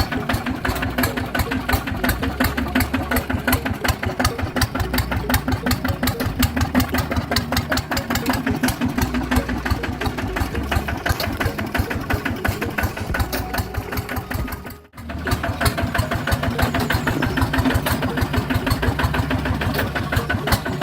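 Tractor engine running with a rapid, even chugging beat. It cuts out for a moment about fifteen seconds in, then carries on the same.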